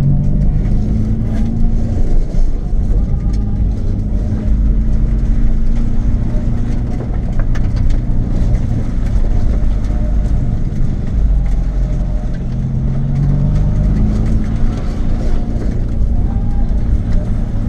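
Nissan 350Z's V6 engine through a Japspeed aftermarket exhaust, droning steadily while driving. Its pitch rises and falls gently with engine speed over a low road rumble.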